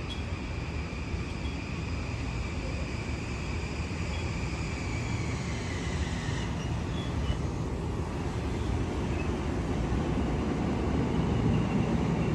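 Long Island Rail Road train running through the station: a steady low rumble with a high whine that slowly falls in pitch and fades about halfway through, the rumble growing louder near the end.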